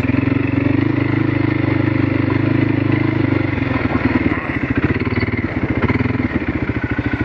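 Four-wheeler (ATV) engine running under throttle, steady for about three and a half seconds, then easing lower and more uneven.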